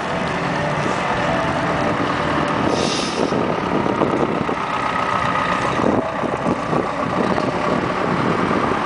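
A motor vehicle running steadily, heard through a continuous rushing noise.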